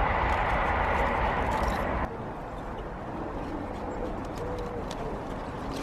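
A rushing noise for about the first two seconds that stops suddenly, then a bird cooing softly several times in the background.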